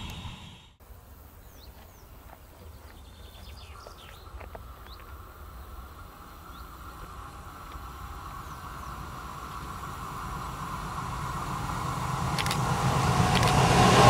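An approaching train, its rumble building steadily from faint to loud, with a steady hum from the rails joining about four seconds in. A few bird chirps sound over the first seconds.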